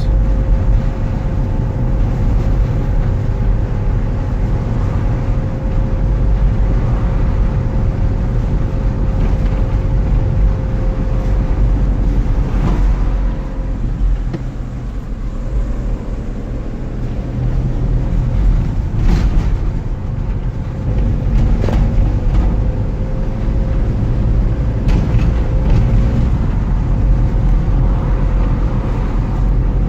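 Steady road-vehicle rumble with a constant engine hum, easing slightly for a few seconds midway.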